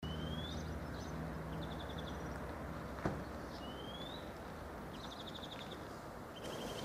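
Birds calling outdoors: a short rising whistle twice and several quick trilled phrases, over a steady low hum, with a single sharp click about three seconds in.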